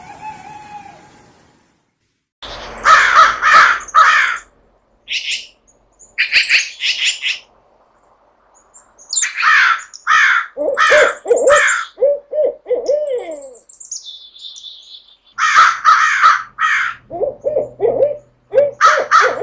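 A series of owl calls: clusters of three or four harsh screeches alternate with runs of quick, pitched, down-curving hoots, separated by short silences. A single high falling whistle comes about two-thirds of the way through.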